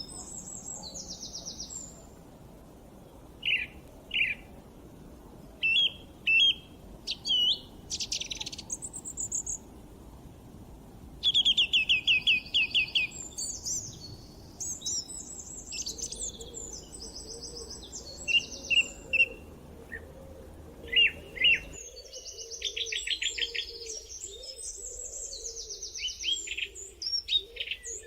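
Several birds chirping and singing, with short calls, fast trills and quick runs of repeated notes, over a faint low background hiss. The hiss cuts off abruptly about three quarters of the way through.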